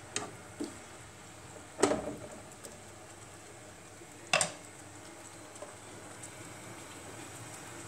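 Tuna steaks frying gently in olive oil and garlic in a frying pan, a steady soft sizzle. A few sharp knocks cut through it, the loudest about two seconds in and another about four and a half seconds in.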